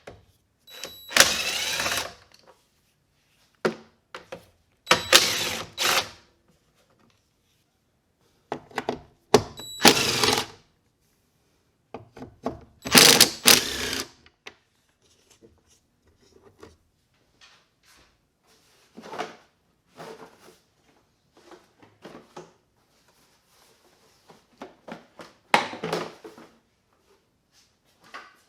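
A cordless power driver spinning fender bolts and screws out in several short runs of about a second each, with clunks and clicks of parts and tools being handled between them.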